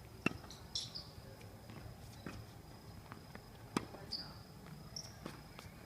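Two sharp knocks of a ball being struck or bouncing on the court, about three and a half seconds apart, with a few fainter ticks between. Behind them runs a steady high chirring of insects.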